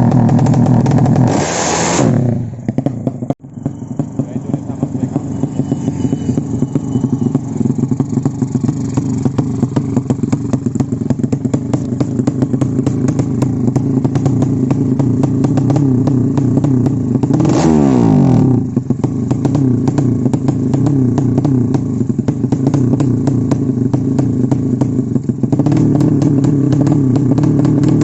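Race-prepared motorcycle engine running steadily, with a throttle blip about two seconds in followed by a sharp momentary drop, and another blip around the middle whose pitch falls back afterwards.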